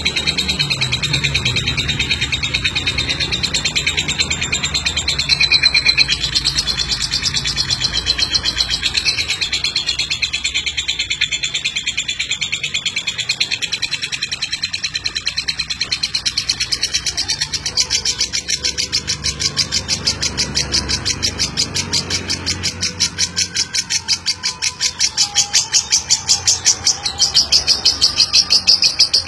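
Lovebird singing its long, fast chattering song (ngeklek): an unbroken run of rapid, sharp, high chirps that grows louder near the end.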